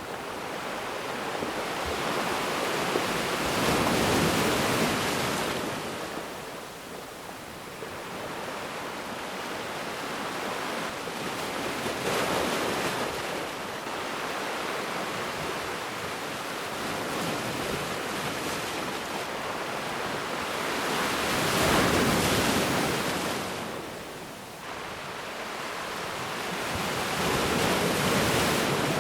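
Ocean waves breaking and washing on a beach, the surf swelling and ebbing every several seconds with louder wave crashes about four seconds in, near the middle, and twice near the end.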